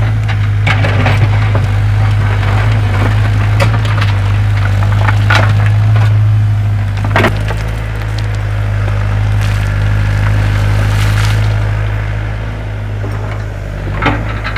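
Excavator engine running with a steady low drone while wood cracks and splinters repeatedly over it, as roots or timber are broken.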